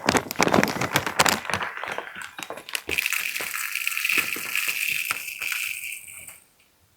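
Birdseed being poured into a plastic bird feeder: clattering and rattling for the first few seconds, then a steady pouring hiss that stops a little after six seconds in.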